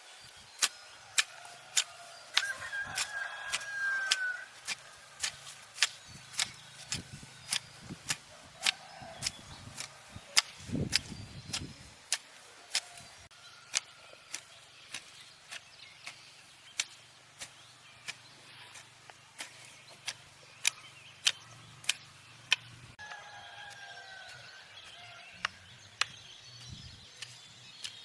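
A hand tool striking over and over at a steady pace, about one and a half sharp blows a second, with a heavier thud about eleven seconds in. Faint bird calls can be heard now and then.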